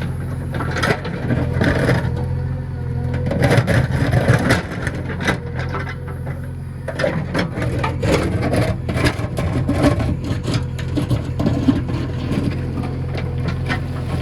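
JCB 3DX backhoe loader's diesel engine running steadily, with repeated knocks and scrapes as the machine works soil.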